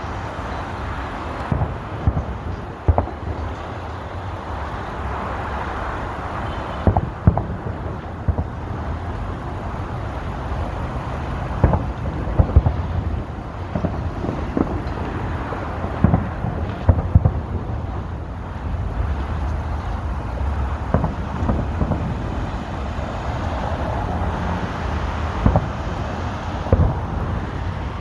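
Aerial fireworks going off: about a dozen sharp bangs at irregular intervals over a steady rumble of road traffic and wind.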